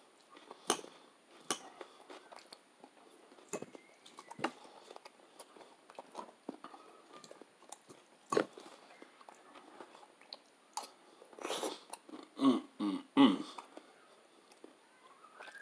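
A person chewing and eating soft pasta close to the microphone: scattered wet mouth clicks and smacks, with a cluster of louder mouth sounds about twelve seconds in.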